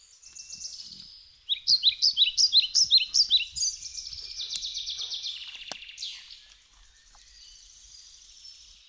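Songbirds singing: a run of quick, sharp descending notes starts about a second and a half in and is followed by a fainter trill that fades out.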